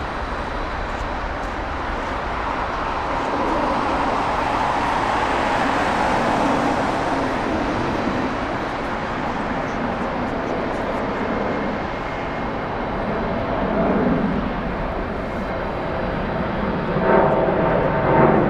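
Jet airliner engines: a steady broad rush that swells a little a few seconds in and holds.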